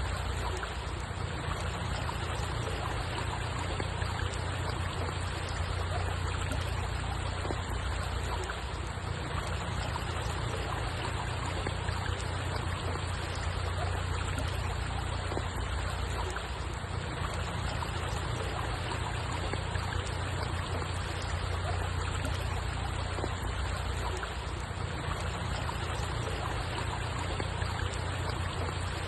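Steady running water, an even wash of sound with a strong low rumble underneath and no distinct splashes or calls.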